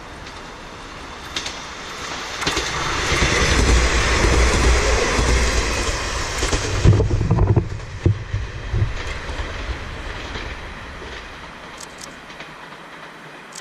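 Kanto Railway diesel railcar passing close by: the sound swells to a loud rumble of engine and wheels, then a run of wheel thumps over rail joints, and fades away as the train recedes.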